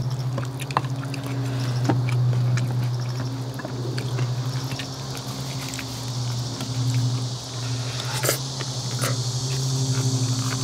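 Eating sounds: chewing, with a metal spoon and chopsticks clicking against glass rice bowls, over a steady low hum. A high insect buzz grows louder near the end.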